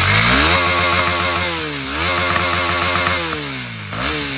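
KTM single-cylinder motorcycle engine revved through its exhaust from idle: it climbs quickly and holds high revs, dips and revs up again about two seconds in, then falls back, with a short throttle blip near the end.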